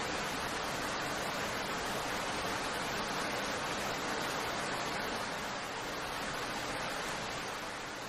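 Steady heavy rain: a continuous, even hiss of falling rain.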